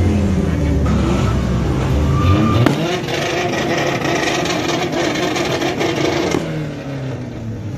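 Car engines revving, with pitch rising and falling, while fireworks go off overhead. A sharp bang comes a little under three seconds in, followed by a few seconds of crackle.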